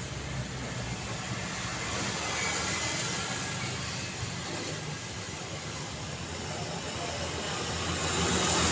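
Road traffic noise: a steady wash of tyres and engines from passing vehicles, with a low rumble. It grows louder near the end as a vehicle comes close.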